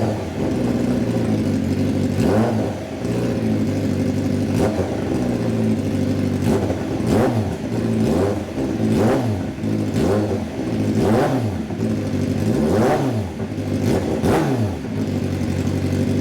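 Honda CBR1000RR-R motorcycle's inline-four engine running, blipped repeatedly: the pitch rises and falls over a steady idle about ten times, closer together in the second half.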